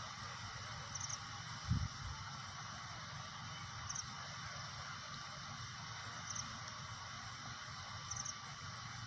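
Steady background hiss with an insect, likely a cricket, chirping about every two seconds, each chirp a quick run of two or three high pulses. A single dull thump about two seconds in.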